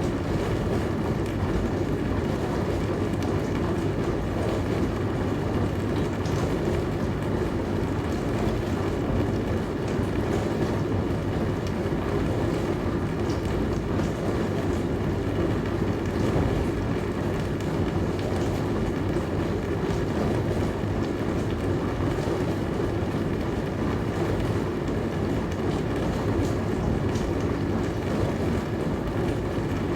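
Dishwasher running mid-cycle: a steady rush of spraying water over the hum of the pump motor, with faint ticks now and then.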